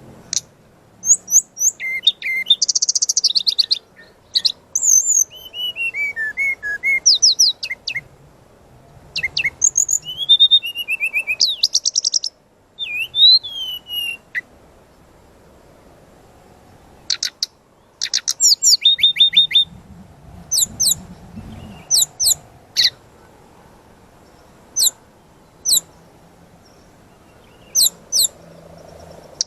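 Brown-chested jungle flycatcher (SRDC) singing a varied song of high, quick-gliding whistles, trills and chirps in bursts. After a pause about halfway through, it gives a short trill followed by single sharp notes spaced a second or two apart.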